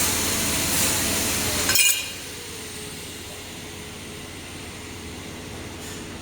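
Air-cooled handheld laser welder hissing steadily. About two seconds in, the hiss cuts off with a brief crackle of clicks, leaving the machine's quieter steady hum.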